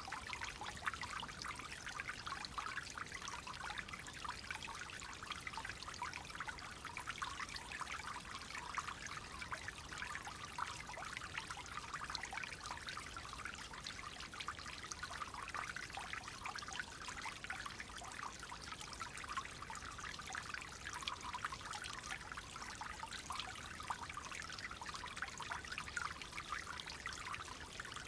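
Clear water flowing steadily and trickling, a continuous bright babbling with dense fine splashes and no pauses.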